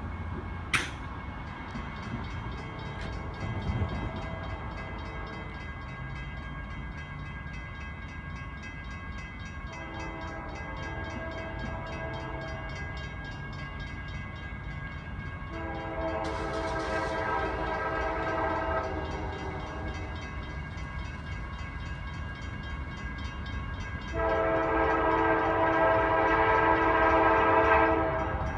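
Approaching freight locomotive's Nathan K5LA five-chime air horn sounding a series of long blasts, as for a grade crossing, faint at first and much louder in the last two blasts, over the low rumble of the oncoming train. A brief sharp click sounds near the start.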